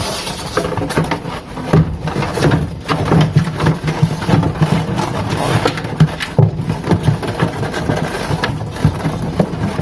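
Irregular clatter, knocks and rubbing of plastic refrigerator parts being handled and pushed into place during reassembly.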